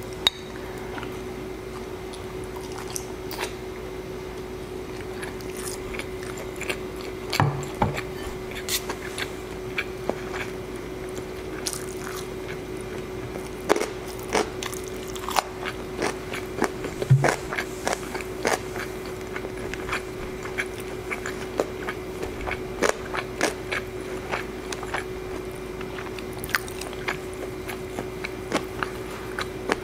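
Close-miked eating: chewing and wet mouth sounds with many short, sharp clicks scattered throughout, and two low thumps, about seven and seventeen seconds in. Under it runs a steady hum and an even background hiss.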